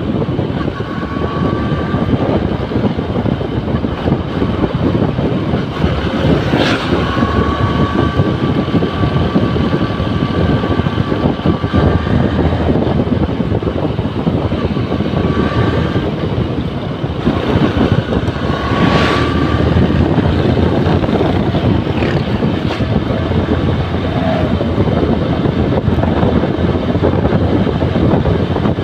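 Motorcycle riding along, its single-cylinder engine running under a loud, steady rush of wind on the microphone. A faint high whine comes and goes several times.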